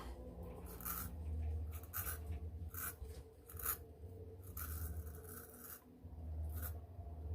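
Short, scratchy rasps of an 8/8 straight razor with a barber's notch scraping through lathered stubble, a stroke every half second to a second. Behind them is a low bass thump of music coming up from a concert downstairs, swelling and fading.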